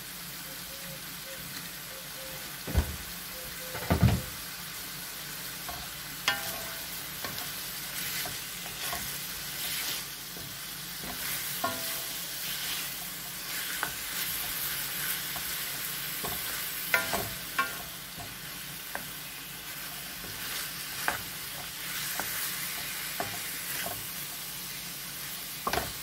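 Chicken strips and onion sizzling in oil in an aluminium wok, stirred with a wooden spoon that scrapes and taps against the pan. There are two louder knocks about three and four seconds in.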